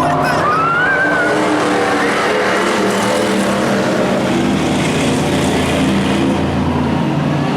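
Hobby-class race truck engine running hard at racing speed, its note shifting up and down, over steady tyre and road noise.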